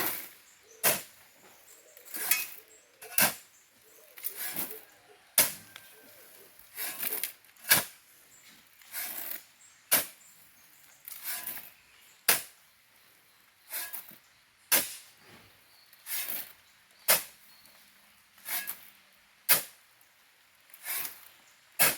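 Shovel digging into a pile of sand and gravel and throwing each load: two gritty scraping crunches every two and a half seconds or so, in a steady working rhythm.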